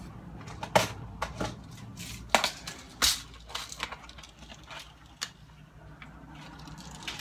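Parts of a portable radio being handled and fitted back together: a series of irregular clicks and knocks of plastic and small components, the loudest in the first three seconds, over a steady low hum.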